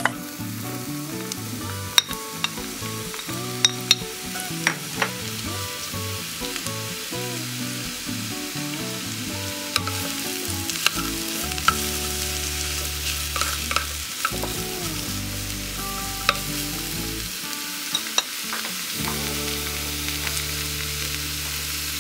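Sliced champignon mushrooms sizzling as they fry in vegetable oil in a frying pan, with sharp ticks and scrapes scattered through as a wooden spatula stirs them.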